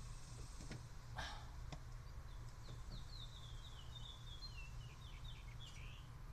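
A bird sings a run of short, falling chirps over a low steady hum. Earlier, a few small clicks and a brief rustle come from the jumper wire and alligator clip being handled.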